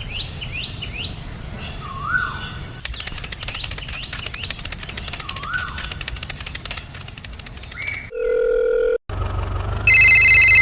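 Birds chirping over a steady high insect-like hiss, with rapid ticking joining a few seconds in. Near the end the birds give way to a steady electronic tone, then a much louder electronic beep.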